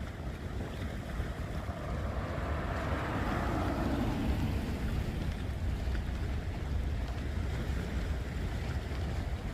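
Wind rumbling steadily on the microphone, with a rushing noise that swells about three seconds in and then slowly fades.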